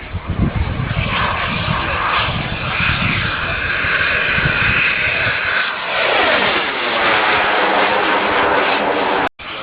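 Twin turbine engines of a quarter-scale RC A-10 Warthog jet whining at high pitch. About six seconds in, the pitch sweeps downward as the jet flies past. The sound cuts out for a moment near the end.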